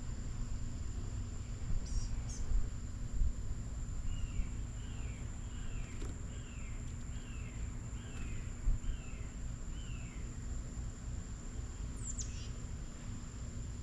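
Backyard birds calling: a bird gives a run of eight descending notes, a bit over one a second, and near the end a single sharp call falls steeply in pitch. A steady high insect drone runs underneath, with a low background rumble.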